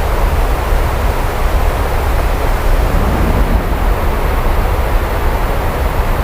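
Heavy rain falling steadily, with a deep, constant low rumble beneath it.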